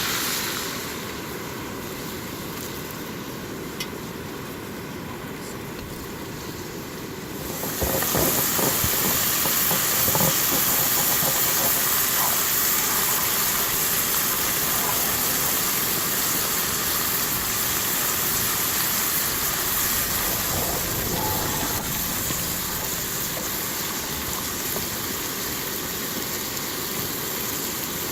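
Food sizzling in a cast iron frying pan over a campfire: a steady hiss with scattered pops and crackles, quieter for the first several seconds and louder from about eight seconds in.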